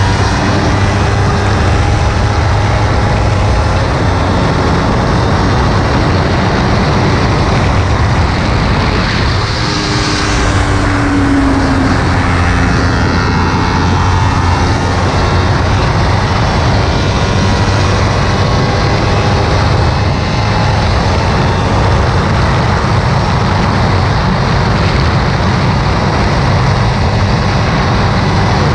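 Kawasaki Ninja 300's parallel-twin engine running hard at track speed, with heavy wind rush on the microphone; the engine pitch rises and falls with the throttle and gear changes, dipping briefly about ten seconds in.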